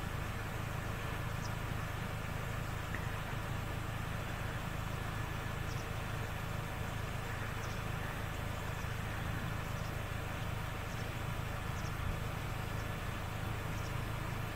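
A vehicle engine idling steadily: a constant low hum under an even background hiss.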